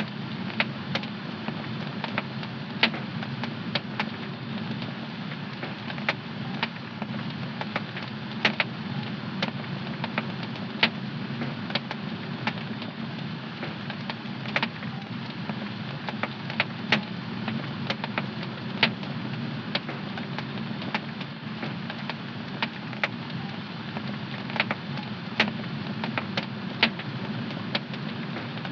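Fire in a home fireplace crackling: irregular sharp pops, a few a second, over a steady low rush of the flames.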